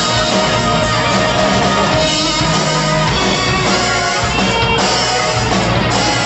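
Live rock band playing: electric guitar over bass and drum kit, steady and loud.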